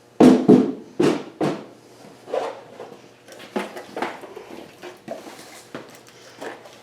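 A series of irregular knocks and clunks: four close together in the first second and a half, then fainter, sparser ones.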